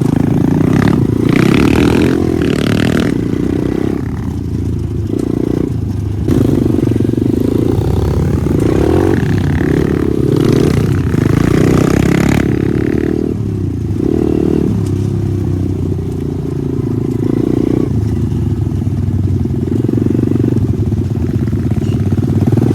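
Pit bike engine revving up and down repeatedly, the pitch rising and falling every second or two as the throttle is worked.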